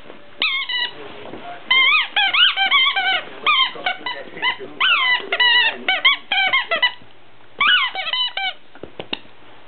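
Squeaky dog toy squeaking over and over in quick runs of short, high, bending squeaks as the dog plays with it, with a short break about seven seconds in.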